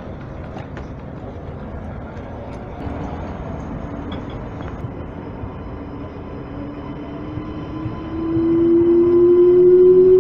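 A train approaching a level crossing: over a steady background rumble, a loud humming tone comes in about eight seconds in and slowly rises in pitch as the train nears.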